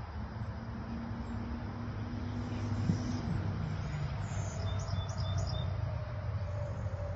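Birds chirping in open air, with a quick run of about four short high chirps past the middle, over a steady low outdoor rumble. A low steady hum underneath stops about three seconds in.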